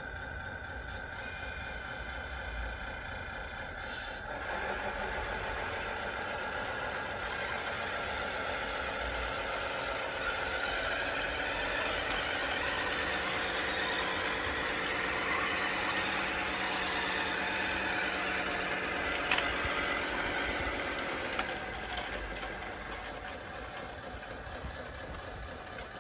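Radio-controlled DXR2 bulldozer running on its wide tracks, with motor and drivetrain whine and rattle. It grows louder through the middle and eases off in the last few seconds.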